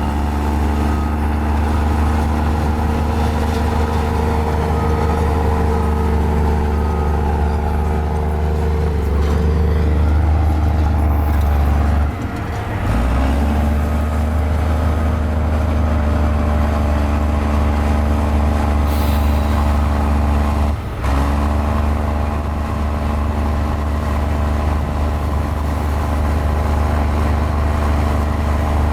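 Mini Komatsu bulldozer's diesel engine running steadily under load, with two brief dips in level, about twelve and about twenty-one seconds in.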